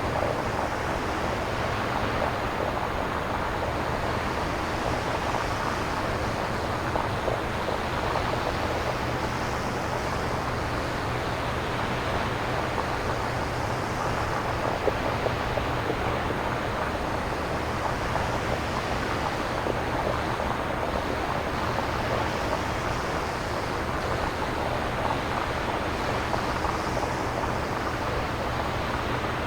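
Synthesized nature ambience: a steady wash of noise with slow, gentle swells, imitating wind or surf, made on a synthesizer without recorded samples.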